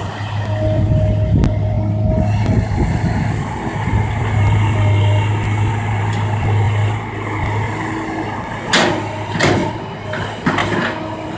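Kobelco hydraulic excavator's diesel engine running steadily under working load, with a few sharp knocks near the end.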